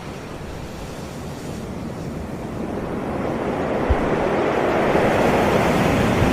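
Sea waves washing onto the shore, a wave swelling up through the second half and peaking near the end. A brief low thump about four seconds in.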